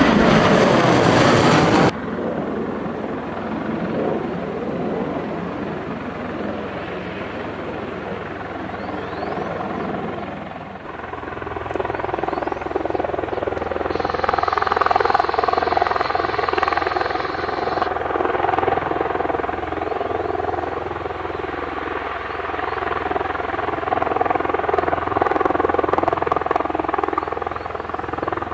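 Aircraft engine noise in several edited segments. A loud jet roar stops abruptly about two seconds in, and a steadier engine drone with a whine follows; the drone shifts again about halfway through.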